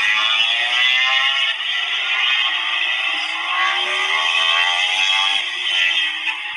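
MotoGP racing motorcycle engines at high revs through a tight corner. Several engine notes overlap and rise in pitch as the bikes accelerate, drop back briefly about a second and a half in, climb again, and fall away near the end.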